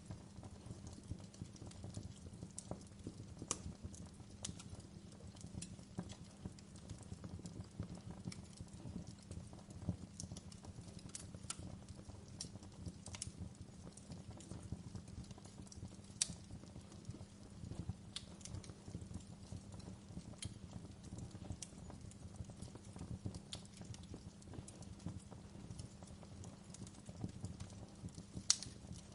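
Wood fire in a fireplace crackling: irregular sharp pops and snaps over a steady low rumble, with a louder pop about halfway through and another near the end.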